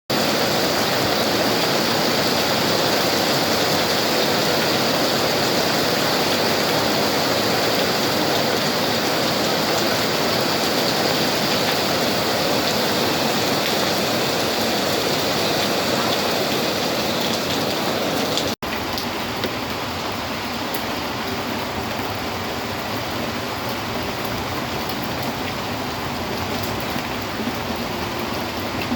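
Steady rain falling, an even hiss. It cuts out for an instant about two-thirds of the way through, then carries on slightly quieter.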